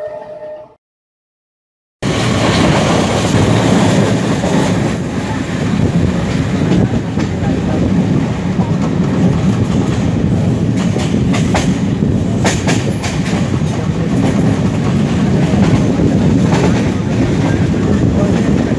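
A train horn's last tone ends just after the start. After about a second of dead silence, a passenger train is running on the rails: a steady rumble with the clicks of wheels over rail joints, several close together around the middle.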